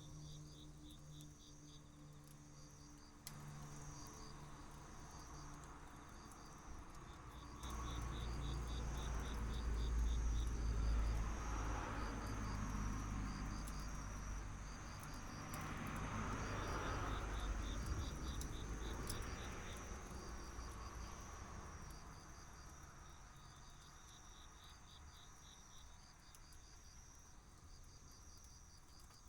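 Crickets and other insects chirping: several overlapping pulsed trills repeating high up. About a quarter of the way in, a low rushing sound rises, swells twice and fades out again.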